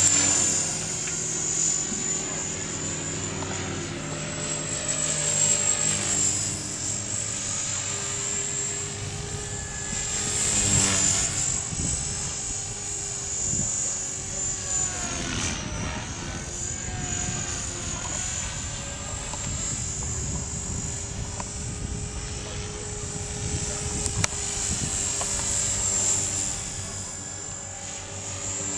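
Electric Trex 450-class RC helicopter in flight: a steady high motor whine over the rotor blades. The pitch rises and falls several times as the rotor speed changes.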